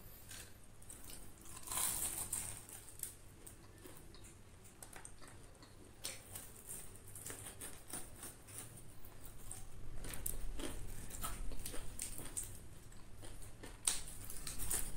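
Close-up eating sounds: chewing and crunching of crispy deep-fried chicken, with wet mouth clicks and smacks. A louder crisp bite into a lettuce leaf comes near the end.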